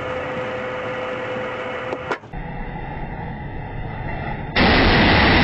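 Steady vehicle running and road noise from dashcam footage, changing abruptly twice as the clips cut. The last part, from about four and a half seconds in, is much louder.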